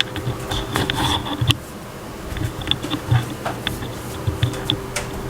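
Small electric cooling fan running with a steady buzzing hum, with scattered clicks and knocks from handling.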